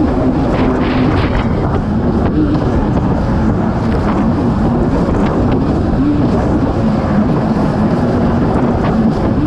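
Kawasaki STX-160 jet ski engine running at speed, its pitch wavering up and down as the throttle and load change over the water, under heavy wind noise on the microphone.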